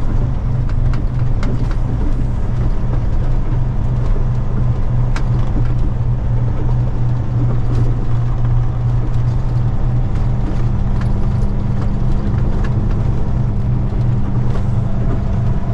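Semi truck's diesel engine running steadily as the truck drives, with a constant low drone and scattered small clicks and rattles.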